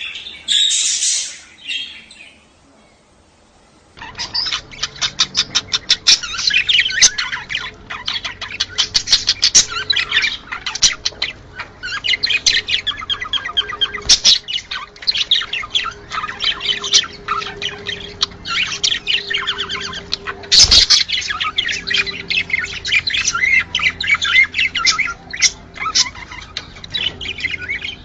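Budgerigars chattering and warbling: a few chirps, a short lull, then from about four seconds in a dense, continuous run of rapid chirps and squawks from several birds. One sharp click about two-thirds of the way through.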